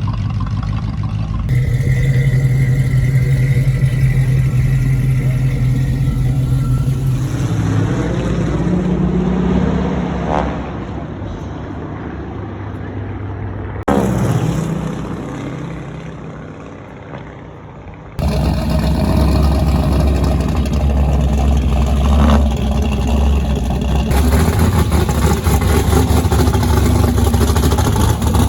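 Engines running in a series of short cuts. In the middle, a passing engine's sound sweeps in pitch and then fades away.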